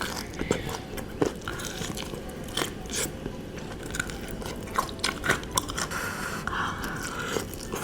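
Close-up eating sounds: biting and chewing sauce-coated fried chicken, with scattered small clicks, smacks and crunches from the mouth.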